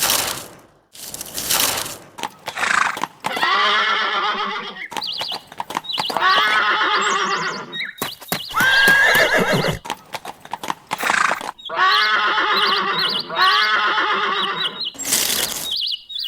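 Horse whinnying about five times, each a quavering neigh of a second or more, with short noisy bursts near the start and end.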